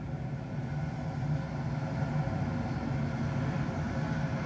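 Steady hum of jet airliner engines, a low drone with a layer of higher tones above it, holding level throughout.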